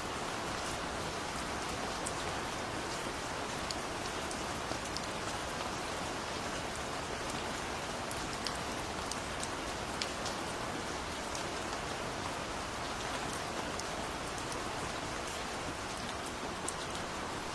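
Steady gentle rain: an even hiss of falling rain with scattered sharp drop ticks on a surface.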